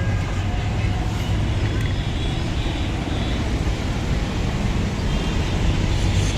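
Steady low rumble of road traffic, with a few faint high tones over it.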